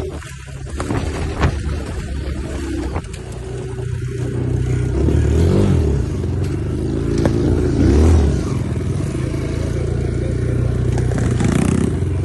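Dirt bike engine running, revving up and back down twice in the middle.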